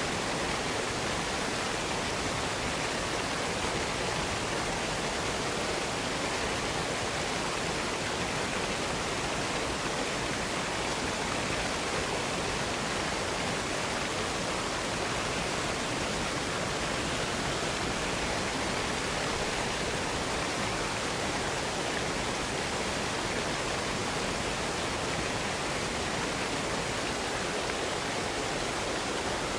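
Waterfall: a steady, even rush of falling water, with no change from start to end.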